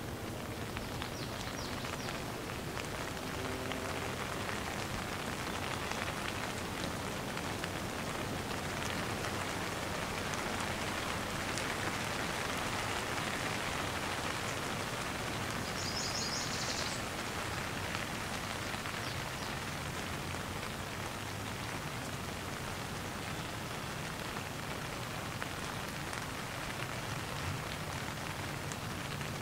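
Light rain falling steadily, an even patter of many drops.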